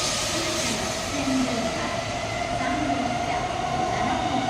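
Tokaido Shinkansen train running: a steady rushing rail noise with a held tone that creeps slightly upward in pitch.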